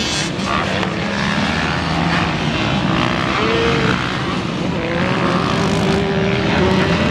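Several motocross dirt bikes running on the track at once, their engine notes rising and falling as they rev and shift.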